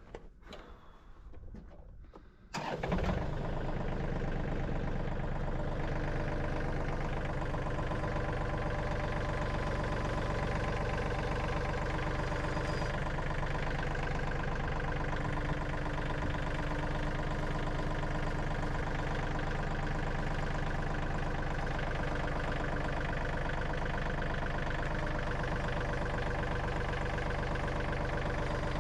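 An engine starts about two and a half seconds in and then runs steadily.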